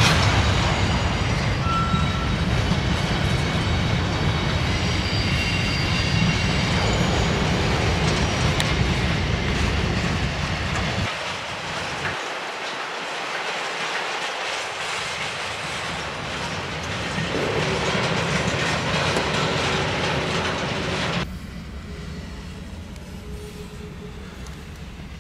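Freight train rolling past: a diesel locomotive and freight cars rumbling, with wheels clacking over the rails and a faint squeal. The heavy low rumble stops abruptly about 11 seconds in, and the sound drops again near 21 seconds.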